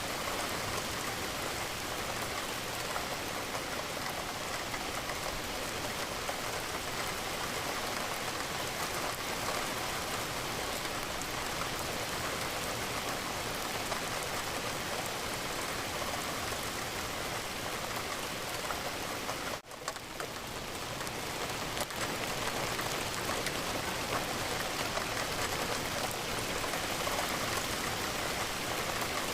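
Steady rain falling on a window, an even hiss of drops. About twenty seconds in, it drops out for a moment and then fades back up.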